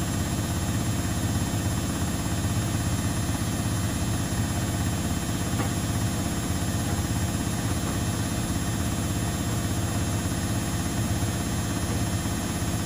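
Household laundry machines running together: a steady mechanical hum with a strong low drone.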